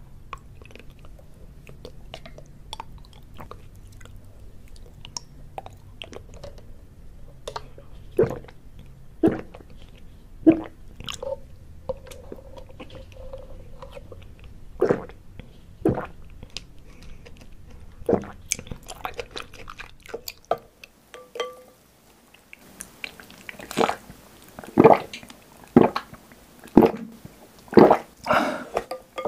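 Close-miked ASMR eating sounds of bubble tea: sucking milk tea through a wide straw and chewing chewy tapioca pearls, heard as scattered sharp wet clicks over a low hum. After a short quiet gap about two-thirds through, a run of louder chewing and sipping sounds follows.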